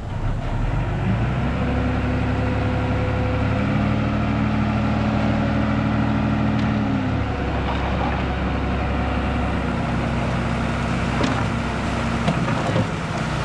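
Heavy construction machine's diesel engine working under load, its pitch stepping up about a second in and shifting a few times as the throttle changes. A few sharp knocks near the end.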